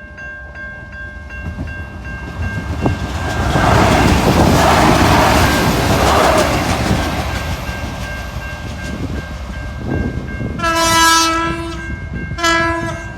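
Diesel railcar passing, its wheels and engine loudest for a few seconds near the start, then two horn blasts near the end, the first about a second long, the second shorter.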